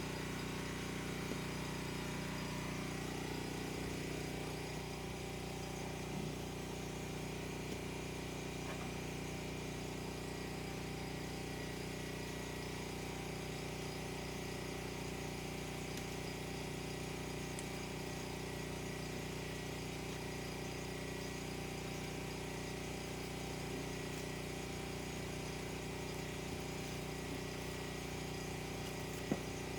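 Generator engine running steadily at constant speed, an even, unbroken hum.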